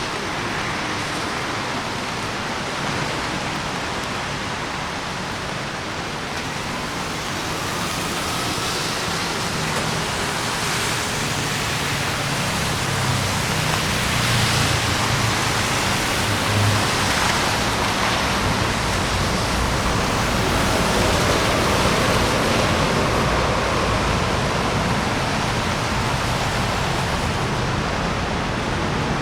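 Rain and traffic on a wet city street: a steady hiss with vehicles passing underneath, growing a little louder partway through.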